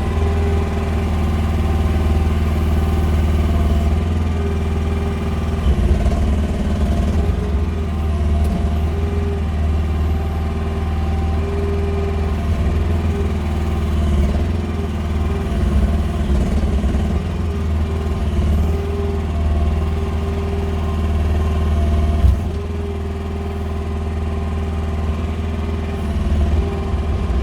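Small engine of a QH13R mini excavator running steadily, its level rising and falling a little as it works. A single sharp knock comes about 22 seconds in, after which the engine runs slightly quieter.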